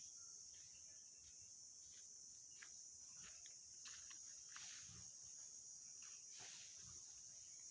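Faint forest ambience: a steady high-pitched drone of insects, with a few soft scattered rustles or steps.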